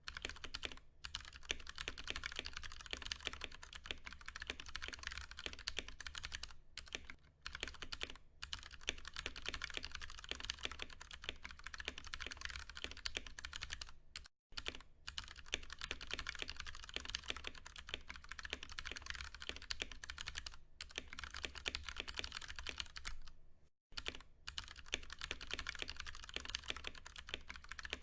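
Continuous fast typing on a Ducky One 2 Mini mechanical keyboard with Cherry MX Brown tactile switches: a dense run of keystrokes, broken by a few brief pauses.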